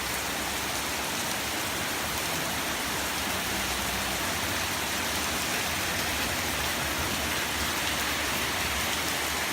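Heavy rain pouring down, a steady even hiss of rain falling on the ground and surfaces.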